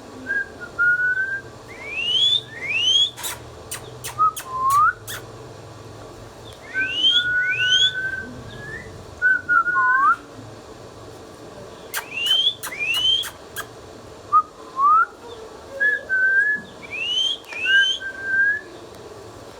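Indian ringneck parrot whistling: pairs of quick upward-sweeping whistles and lower, held or wavering whistles, repeated in short bouts every few seconds, mixed with sharp clicks.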